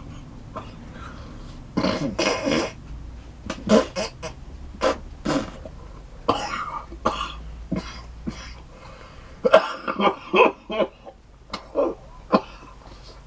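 A man coughing in a string of short fits, with some throat clearing, as wasabi eaten on pizza catches his throat.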